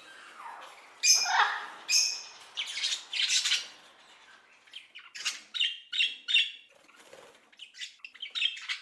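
Rainbow lorikeet calls: harsh, grating screeches in the first half, then a run of shorter, quicker squawks.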